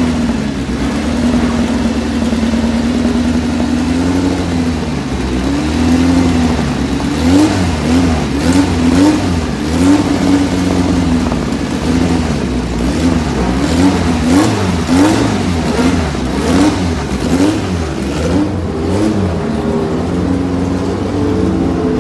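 A historic car's engine running at a fast idle, then blipped over and over, its pitch jumping up and falling back roughly once a second. It settles back to a steadier idle near the end.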